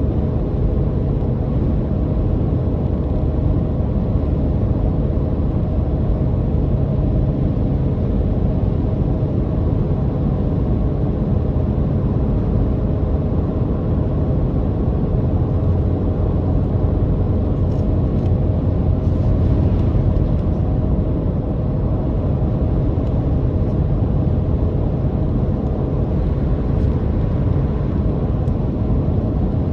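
Car driving at a steady speed: a continuous drone of engine and road rumble with a faint steady hum over it.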